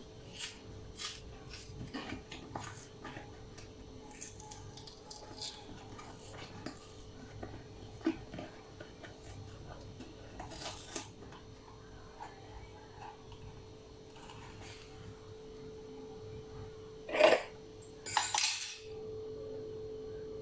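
Kitchen utensils clinking and tapping as whipping cream is measured out with a cup into a bowl, with a louder clank about 17 seconds in and a brief rustle just after, over a faint steady hum.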